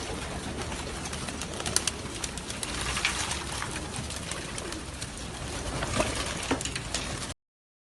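A large flock of racing pigeons, many cooing at once in a dense din, with scattered sharp clicks throughout. The sound cuts off suddenly near the end.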